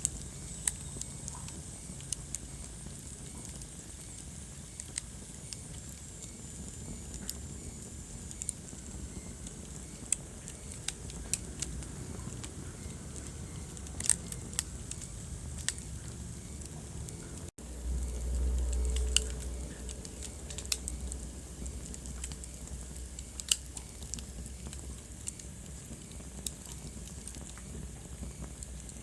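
Wood fire crackling in a fireplace: irregular sharp pops and snaps over a steady low rumble. About two-thirds of the way through the sound cuts out for an instant, then a louder low rumble swells for a couple of seconds.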